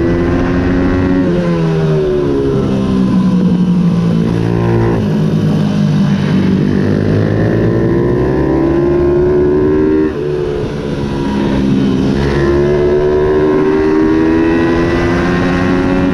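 Ohvale 110 race minibike's small single-cylinder four-stroke engine at racing revs. Its pitch steps down through downshifts about a second in, sits low through a corner, then climbs through the gears. It cuts sharply about ten seconds in and rises again.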